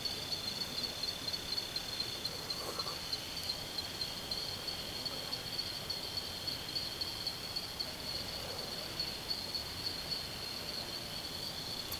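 Insects trilling in the forest: a steady, high-pitched, rapidly pulsing trill, with a second, slightly lower trill beneath it.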